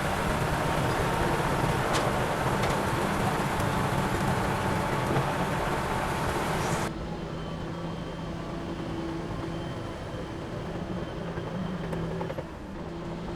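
Heavy diesel engine of earth-moving machinery running steadily under loud, rushing noise. About seven seconds in, the sound cuts abruptly to a quieter, steadier engine hum.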